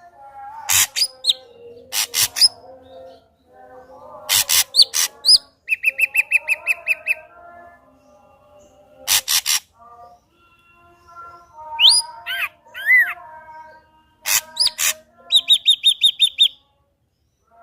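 Ashy drongo singing a varied song of sharp clicking notes, rising whistles and rapid trills. A fast mid-pitched trill comes about six seconds in, and a higher fast trill near the end.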